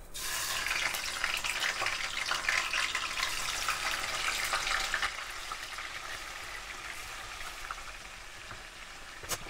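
Paneer cubes going into hot oil in a wok, sizzling loudly the moment they hit the oil. The sizzle settles to a quieter, steady frying after about five seconds, with a single sharp tap near the end.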